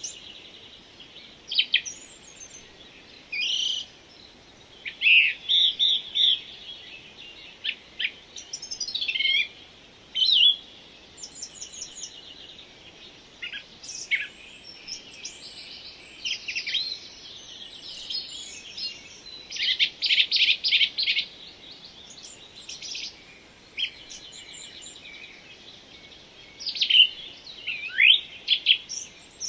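Several birds singing and calling: short chirps, quick downward whistles and rapid trills, overlapping one another, over a faint steady hiss.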